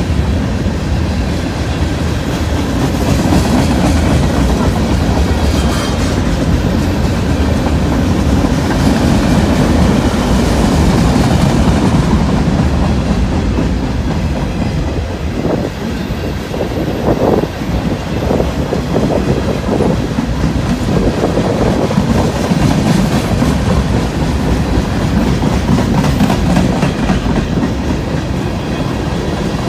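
Freight train cars rolling past: a steady rumble of steel wheels on rail, with clicks as the wheels cross the rail joints.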